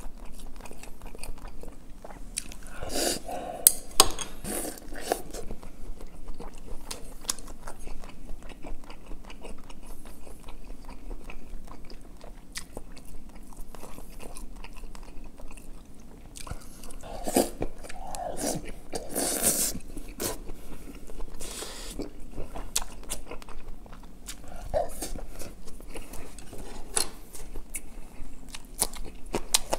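Close-miked chewing of braised pork and kimchi: a steady run of wet chewing and lip-smacking clicks. Louder clusters of mouth sounds come about three seconds in and again around seventeen to twenty seconds in.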